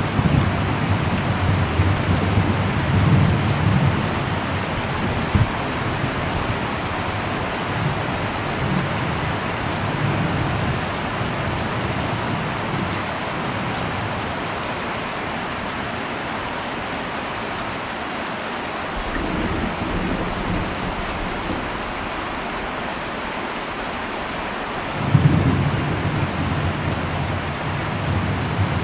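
Heavy rain falling steadily on an old metal roof, with rolling thunder: rumbles in the first few seconds, another building up past the middle, and a sharper clap about 25 seconds in that keeps rumbling to the end.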